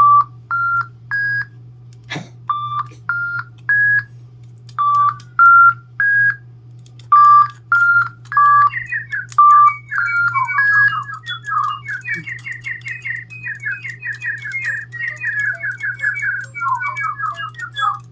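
Electronic DigiBirds toy birds chirping. First a short three-note rising whistled phrase repeats several times; then, about halfway through, the birds break into dense overlapping trills and warbles.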